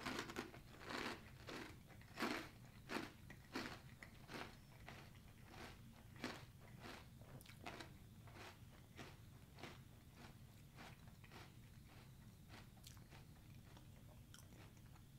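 A person chewing a mouthful of Special K Protein Cinnamon Brown Sugar Crunch cereal: crisp, regular crunches about three every two seconds, loud at first and growing fainter as the pieces break down. The pieces are way crunchier than expected.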